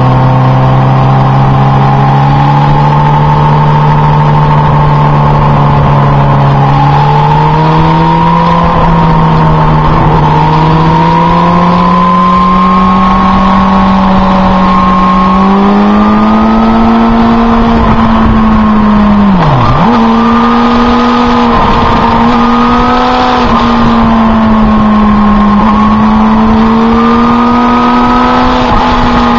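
Motorcycle engine heard from on board while riding, running at steady road revs with its pitch slowly climbing, a quick drop and return in revs about two-thirds of the way through, over a rush of wind noise.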